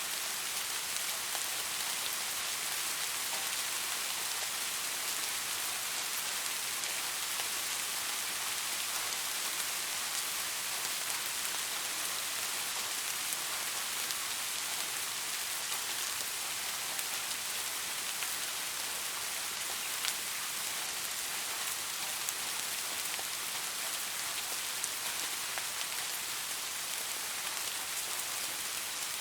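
Steady rain falling, a constant hiss with scattered drops ticking on a surface.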